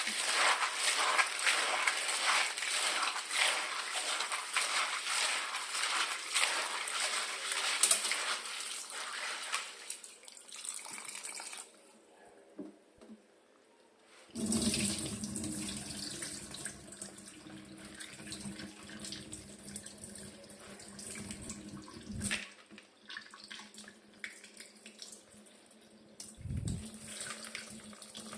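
Kitchen tap running into a sink with splashing, loudest for the first ten seconds or so, then a short lull and quieter running water with a couple of sharp knocks.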